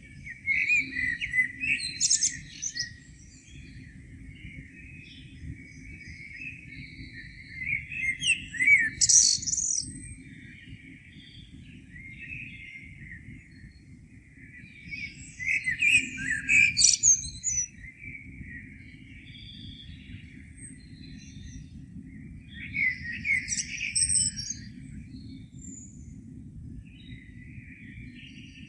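Songbirds singing in the morning: a louder burst of song about every seven seconds, each lasting a couple of seconds, over continuous softer twittering, with a steady low rumble underneath.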